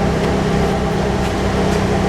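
2002 Saturn Vue's 2.2-litre Ecotec four-cylinder engine idling steadily, warmed up, heard at the exhaust.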